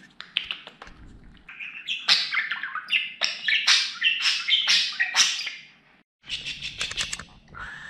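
Budgerigar warbling and chirping: a fast run of short, sharp chirps and chatter, with a brief pause about six seconds in.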